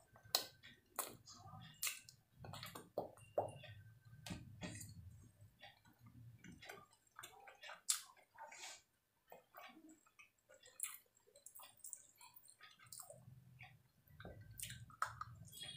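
Close-up eating sounds: wet chewing with many short, irregular lip smacks and mouth clicks, and fingers squishing and picking at rice and chicken on a steel plate.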